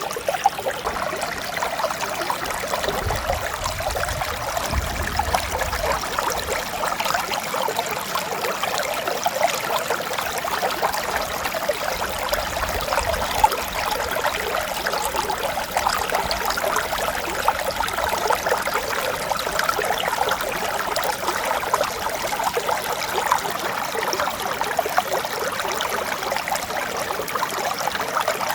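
A clear mountain stream running steadily, an even rush of flowing water.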